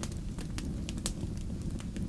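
Wood fire crackling in a fireplace: a steady low rumble with several sharp snaps and pops scattered through.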